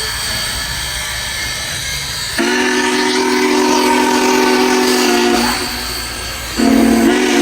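Steam locomotive's chime whistle: steady hiss at first, then a long multi-tone blast about two and a half seconds in, and a second blast starting near the end.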